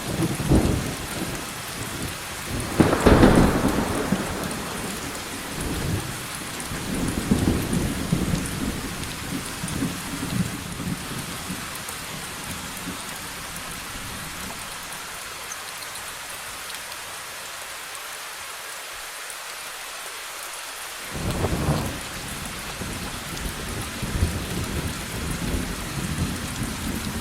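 Steady rain hissing with rolling thunder. A loud thunderclap about three seconds in rumbles on for several seconds, then rain alone, and another rumble of thunder starts abruptly about two-thirds of the way through.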